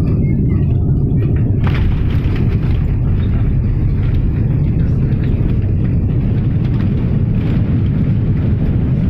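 Steady low rumble heard inside a jet airliner's cabin during landing, with a few faint knocks or rattles.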